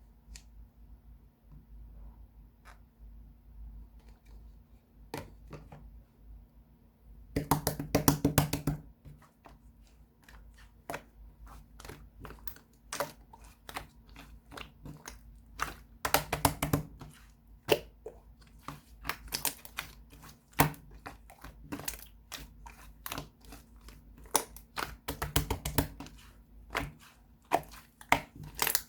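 Slime being squeezed and poked by hand, making rapid wet clicking and popping sounds. The clicks are sparse at first, then come thick and fast, with three busier stretches of squishing.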